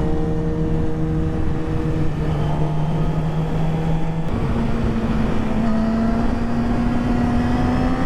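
Yamaha R6 sport bike's inline-four engine cruising under wind noise. Its note steps down slightly about two seconds in, then rises about four seconds in and keeps climbing slowly as the bike speeds up.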